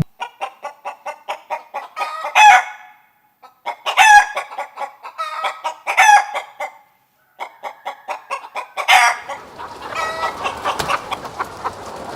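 Chicken clucking rapidly, broken by several louder calls that bend in pitch. From about ten seconds in, it continues over a noisier farmyard background.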